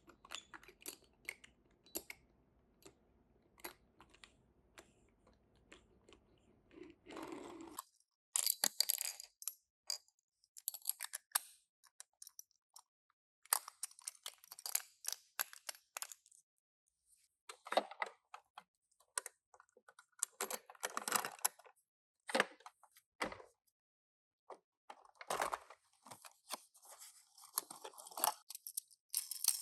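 Hands unboxing die-cast toy cars: scattered small clicks and taps, then from about eight seconds in, repeated bursts of crinkling, rustling packaging.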